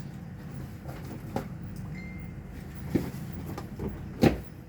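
A few sharp knocks over a steady low hum: one a little over a second in, another about three seconds in, and the loudest near the end.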